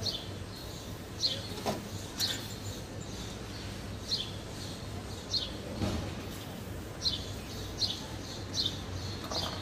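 A bird chirping repeatedly: short, high, falling chirps about once a second. There is one faint knock about two seconds in.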